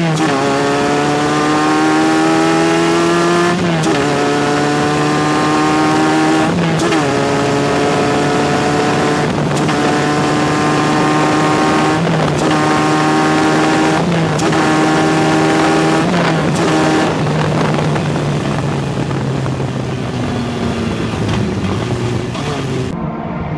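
Formula race car engine accelerating hard with a manual gearbox. The pitch climbs, then drops sharply at each gear change, about every two to three seconds, until roughly 17 seconds in. After that the engine runs lower and rougher with no clear rising tone.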